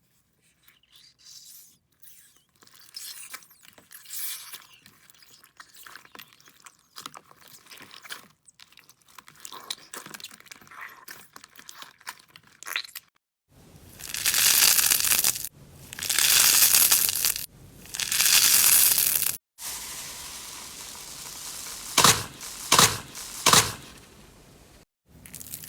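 Slime being handled: faint crackling clicks at first, then three loud crackly squishes of about a second each, a steadier hiss, and three sharp pops near the end.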